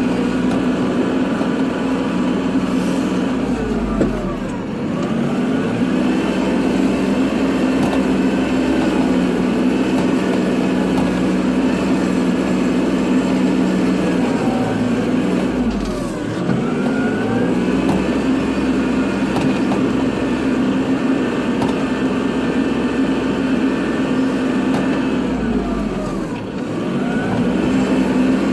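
Kubota tractor's diesel engine running steadily under plowing load. Three times its revs sag and pick back up, with a knock at the first two dips.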